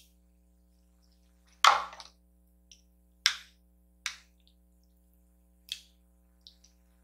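A handful of short, sharp, wet clicks about a second apart, made while eating noodles with plastic chopsticks.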